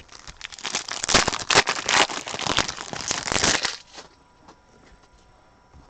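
Trading cards and their plastic packaging being handled. Dense crinkling and rustling with many small clicks lasts about three and a half seconds, then stops.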